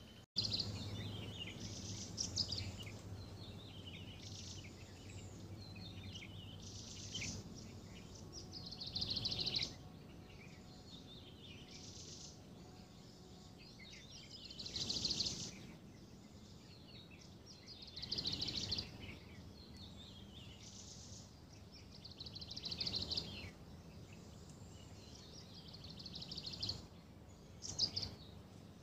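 Birds chirping and calling, with a louder burst of calls every few seconds.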